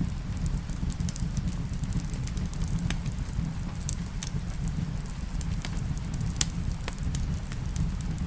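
Wood fire in a fireplace crackling, with sharp pops scattered irregularly (the strongest about six seconds in), over a steady low rumble, mixed with rain.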